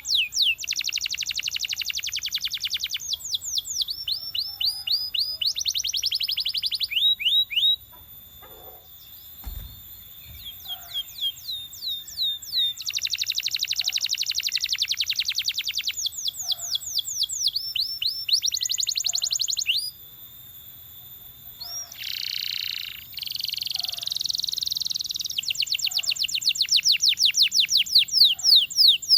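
Belgian canary singing a long song of fast trills, each a run of quickly repeated high notes, broken by two short quieter pauses.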